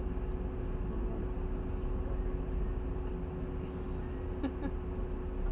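Interior of a LiAZ 6213.65 articulated city bus under way: steady low rumble of the drivetrain and road noise, with a constant whine held at one pitch.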